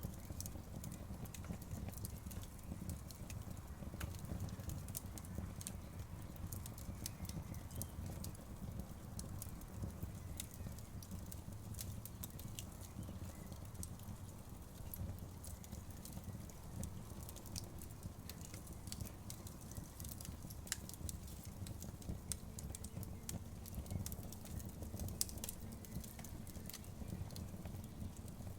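Outdoor wood fire burning, with a steady low rumble of the flames and frequent irregular crackles and pops of burning wood.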